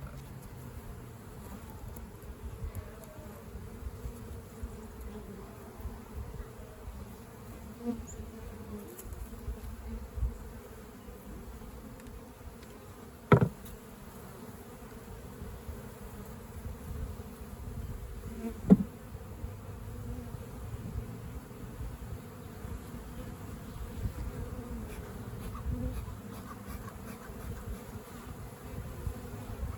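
Honeybees buzzing steadily in a swarm around the hive. Two sharp knocks, about five seconds apart, stand out near the middle.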